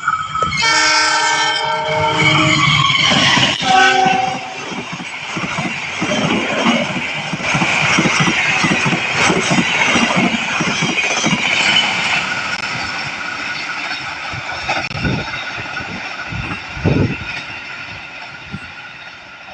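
Locomotive horn sounding a long blast, then a short second one, as a train approaches at speed. The train then passes with a rushing roar and wheels clattering over the rail joints, fading away.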